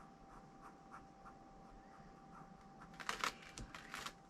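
Drawing strokes of a pen or pencil on paper: faint, spaced short strokes, then a quick run of louder scratchy strokes about three seconds in, as a line is gone over to thicken it.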